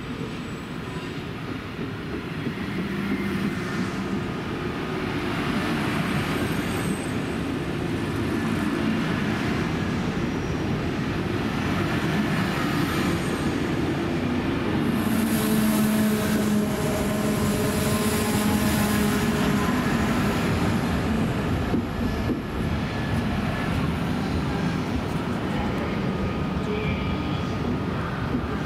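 Electric train running on the rails: a rumble that swells about three seconds in and stays loud, with a steady hum running through it and a hissier stretch around the middle.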